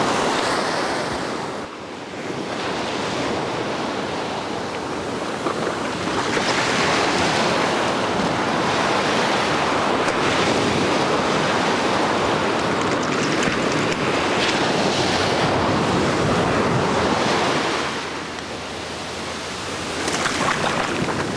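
Ocean surf breaking on a beach: a steady rush of waves that eases briefly about two seconds in and again near the end.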